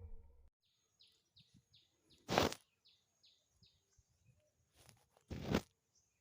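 A small bird calling a run of short, falling notes, about three a second, over a faint steady high tone. Two brief, loud bursts of noise break in about three seconds apart.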